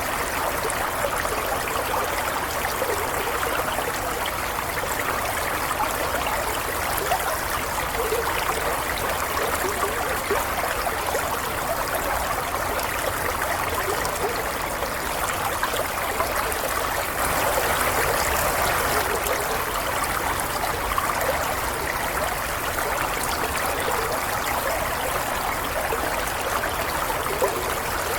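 Flowing stream water running and trickling steadily over rocks, a continuous babbling with small splashes.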